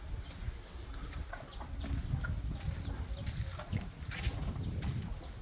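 Chicks peeping: a string of short, high chirps, each gliding downward, over a low rumble.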